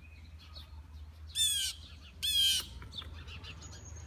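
A bird giving two harsh squawking calls about a second apart, each a short raspy call that bends down in pitch.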